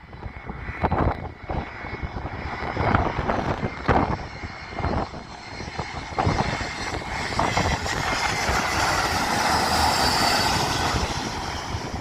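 Airbus A320 jet engines on approach, with a steady whine, growing louder in the second half and loudest about ten seconds in. Gusts of wind buffet the microphone throughout.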